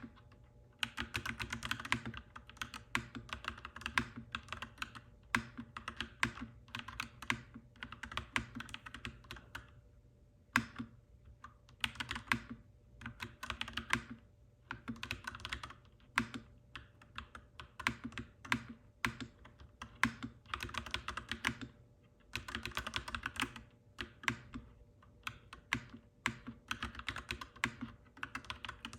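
Clacky mechanical keyboard being typed on in quick runs of keystrokes, with short pauses between bursts.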